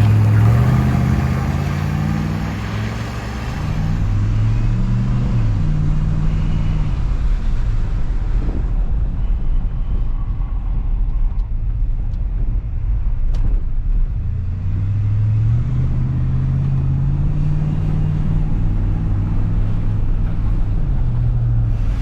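Ford F-150 SVT Lightning's 5.8-litre V8 running under way: its pitch climbs and drops back several times in the first half, like gear changes, then holds a steadier drone.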